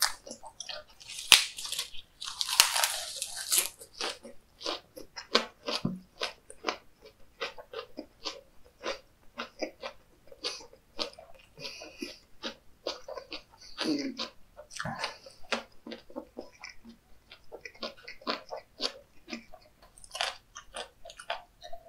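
A man chewing a mouthful of chewy raw seafood sashimi: rapid wet mouth clicks and smacks, several a second, loudest about one to four seconds in.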